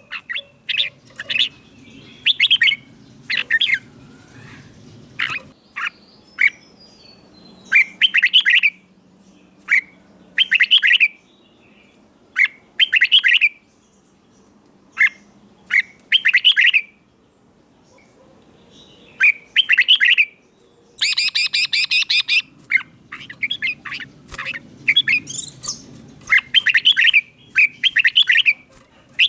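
Red-whiskered bulbul singing: short, loud, chirpy whistled phrases repeated every second or two, with a pause of a few seconds midway and a quicker run of phrases later.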